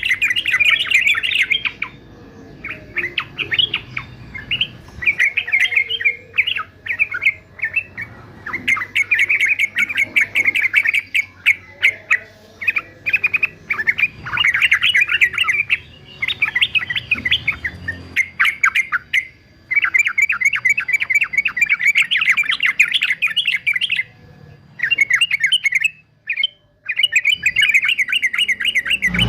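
Male yellow-vented bulbul singing in fast, chattering runs of short notes, broken by brief pauses of a second or so.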